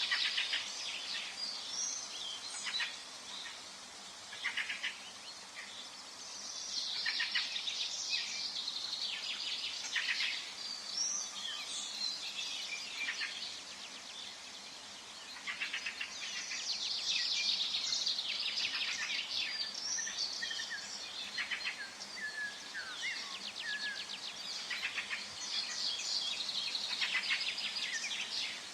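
Several songbirds singing at once: rapid chirps, trills and short whistled notes in bouts that swell and fade every few seconds, over a faint steady forest hiss.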